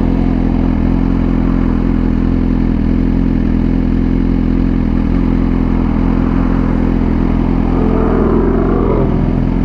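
Motorcycle engine running at a steady speed while riding, a constant low drone with no revving up or down.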